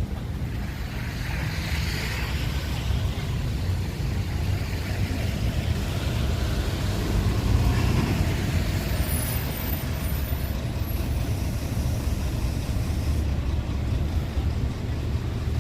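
Strong wind buffeting the microphone with a steady low rumble, over a hiss that swells about two seconds in and again near the middle.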